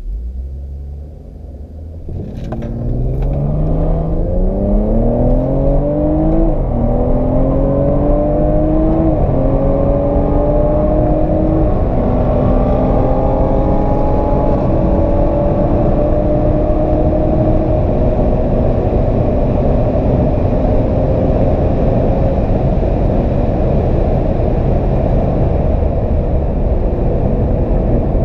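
BMW 340i's tuned turbocharged 3.0-litre inline-six heard from inside the cabin: idling, then launched at full throttle about two seconds in, the engine note rising through the gears with a drop in pitch at each of about five upshifts, the shifts coming further apart. Over the last ten seconds the engine note settles under a steady rush of wind and road noise at speed.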